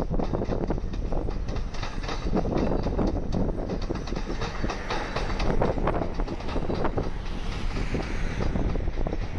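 Melbourne Metro electric suburban train running through the track junction, its wheels clacking over the rail joints and points above a steady rumble.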